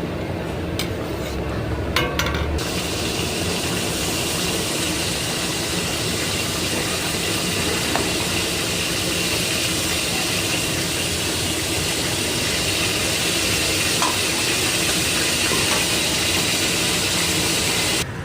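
Chicken gravy cooking in a pot with a loud, steady hiss that starts abruptly a couple of seconds in, after a few sharp clinks of a utensil against the pot.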